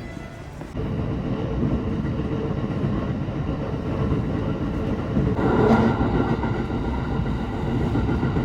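Train running: a steady rumble of wheels on the rails, jumping louder about a second in.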